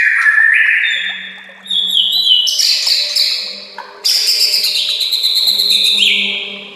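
White-rumped shama (murai batu) singing loudly: a string of clear whistled phrases that step up and down in pitch, then about four seconds in a fast, dense rattling trill that drops lower near the end.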